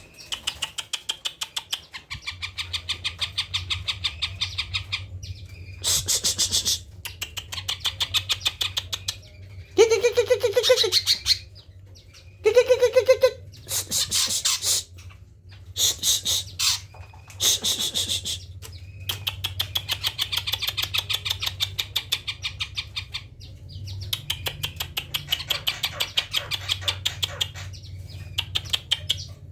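Green leafbird (cucak ijo) singing a long, varied song of rapid repeated chattering notes in runs, with mimicked phrases (isian) mixed in, including two lower, fuller calls about ten and thirteen seconds in. A steady low hum lies under the song from about two seconds in.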